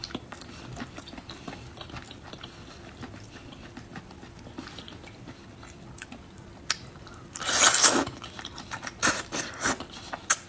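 A person eating close to the microphone: mostly quiet with small wet clicks, then louder chewing and biting noises about seven and a half seconds in and a few more shortly before the end.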